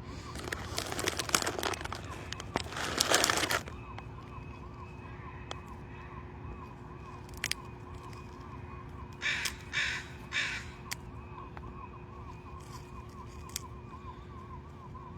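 Rustling and scraping as a phone is handled and set down on the ground, then a bird gives three short, harsh caws about nine seconds in.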